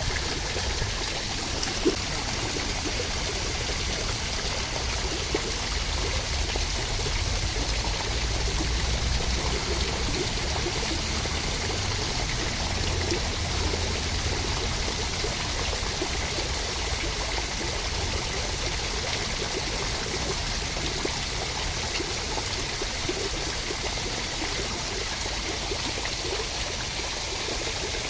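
Steady rain falling: a continuous, even hiss of water with small scattered drip ticks and a low rumble that swells slightly in the middle.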